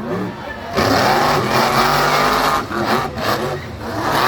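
Monster truck engines revving hard under full throttle during a drag race, the pitch rising and falling as the throttle opens and closes.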